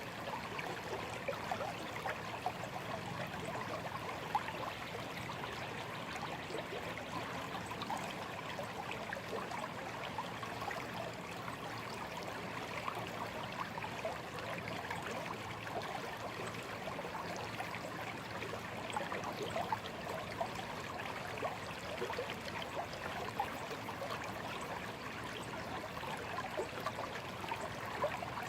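Shallow stream flowing steadily, water trickling and burbling over stones.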